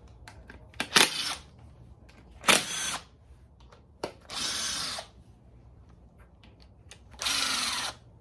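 Power drill or driver spinning 8mm valve cover bolts out of an LQ4 6.0 V8 in four short bursts, each about half a second to a second long, most opening with a sharp click.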